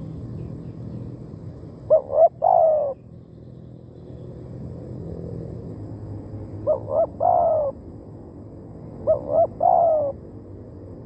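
Spotted dove cooing: three phrases about four seconds apart, each two short coos followed by a longer, drawn-out coo.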